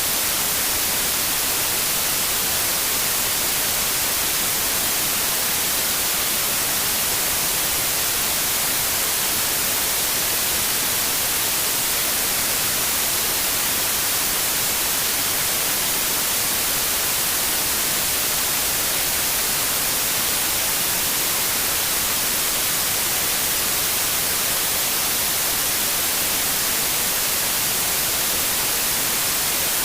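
Steady white noise: an even hiss, strongest in the treble, that holds one level throughout.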